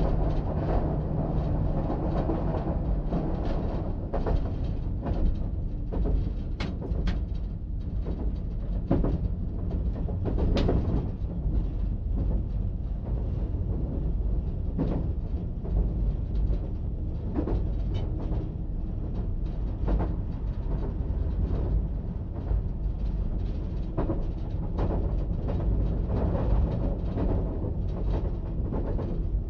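AEG diesel multiple unit running along the track, heard from the driver's cab: a steady low rumble with sharp wheel clicks every few seconds.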